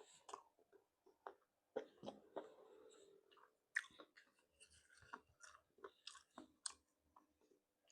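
Close-up mukbang eating sounds of seafood being chewed: quiet, irregular wet mouth clicks and smacks with a little crunching.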